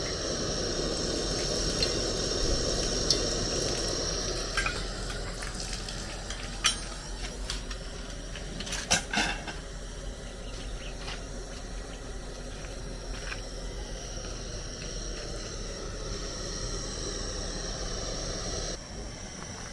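Oil frying with a steady sizzling hiss, with a few sharp clinks of a utensil against the pan; the loudest are two close together about nine seconds in.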